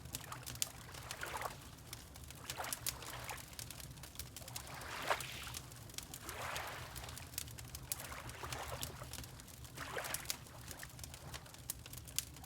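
Water lapping in small splashes about once a second, with the sharp pops and crackles of a wood fire throughout and a low steady hum underneath.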